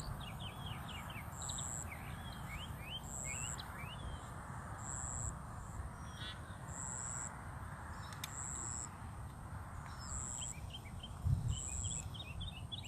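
Outdoor wetland ambience: small birds giving many short chirps, a high pulse repeating about once a second, and a steady low rumble underneath. A short low thump comes about eleven seconds in.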